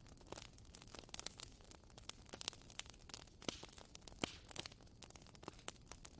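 Bonfire crackling: irregular sharp snaps and pops over a faint hiss, with a couple of louder pops midway.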